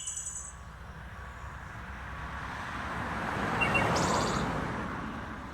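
A vehicle passing by on a street, swelling to its loudest about four seconds in and fading, over a steady low traffic rumble. A bird chirps at the very start.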